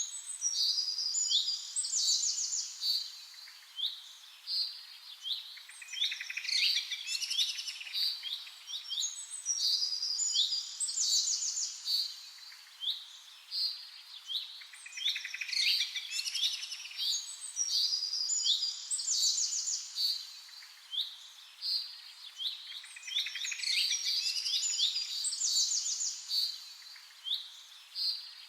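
Small birds chirping and twittering: many short high notes and quick trills overlapping without a break, swelling and easing in bursts.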